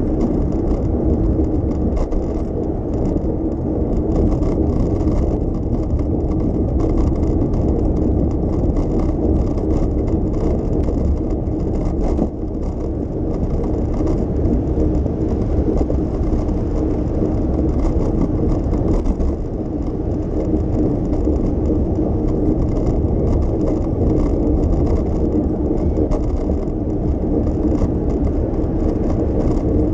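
Steady noise of riding a bicycle through city streets: tyres rolling and wind on the microphone, with a brief dip about twelve seconds in.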